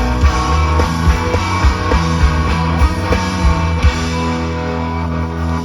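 Rock band playing live, with electric guitars and a drum kit; the drum hits stop about four seconds in, leaving the guitars ringing on.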